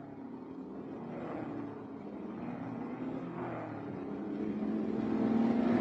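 Racing car engine running and growing steadily louder as the car approaches.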